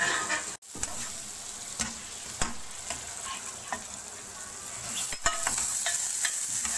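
Beef pieces and onion-tomato masala sizzling in hot oil in a karahi while a slotted spoon stirs and scrapes the pan, with scattered clicks and one sharp knock about five seconds in.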